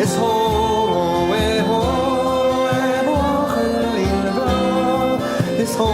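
A song sung in Irish over instrumental accompaniment, the voice holding long, slowly moving notes.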